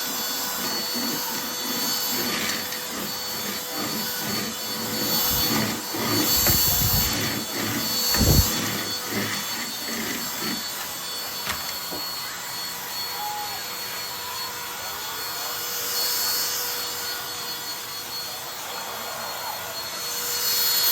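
Cordless stick vacuum cleaner running with a steady motor whine and airflow hiss, with a few low thumps about five to eight seconds in, the loudest just past eight seconds.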